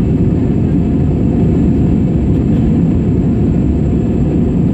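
Steady low roar of an Airbus A320's jet engines and rushing air, heard from inside the passenger cabin, with a thin, faint high whine.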